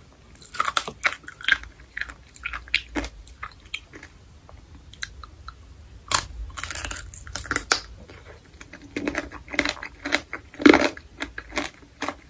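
Close-miked biting and chewing of candied fruit: many short, irregular crunches of the sugar-coated fruit, loudest about ten and a half seconds in.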